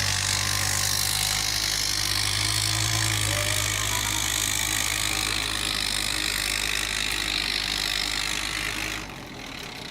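A motor vehicle's engine running steadily under a loud hiss, which stops abruptly about nine seconds in.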